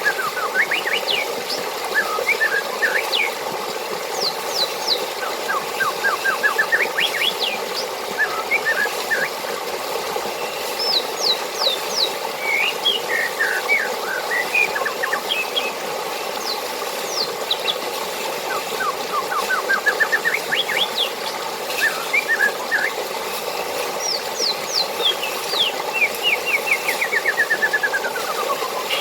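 Songbirds singing over a steady rush of flowing water, with quick chirps, fast rising runs of notes and falling trills repeating throughout, one long falling trill near the end.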